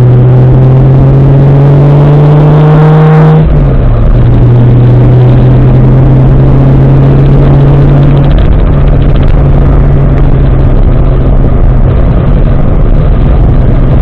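Nissan 240SX's swapped Toyota 1JZ-GTE turbocharged straight-six pulling under acceleration with rising revs, then dropping sharply in pitch about three and a half seconds in, as on an upshift, and running on at steady lower revs.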